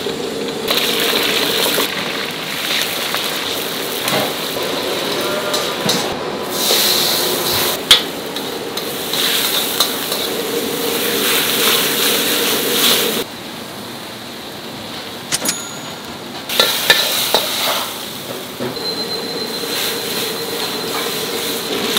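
Food sizzling and frying on a hot pan in a restaurant kitchen, in stretches that stop and start, with a few sharp knocks.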